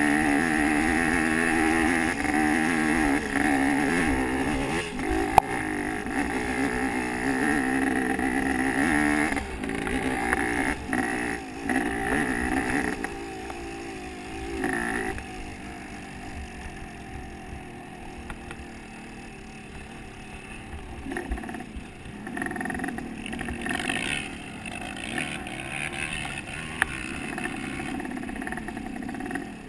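Motocross bike engine running, its pitch rising and falling as it is revved. Loud for the first dozen seconds or so, then fainter for the rest.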